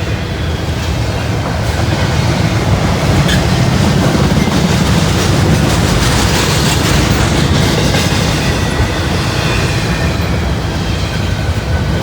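Freight train rolling past on the track: a steady rumble of wheels on rail, slightly louder through the middle.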